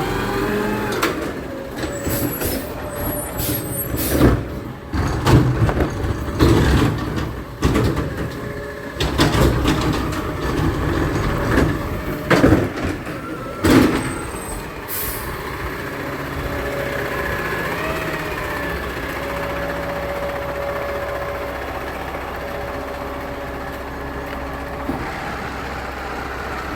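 Garbage truck at work: a run of sharp bangs and hisses over the rumbling engine for about the first half, then the truck's engine running steadily.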